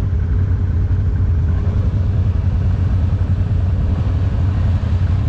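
Off-road vehicle engine running steadily, a continuous low drone with no change in pace.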